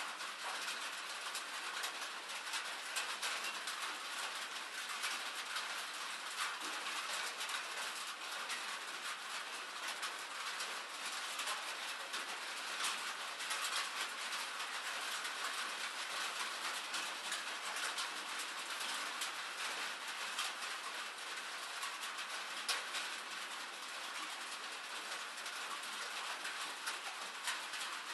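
Steady rain falling: an even hiss of rain with a dense patter of individual drops ticking throughout.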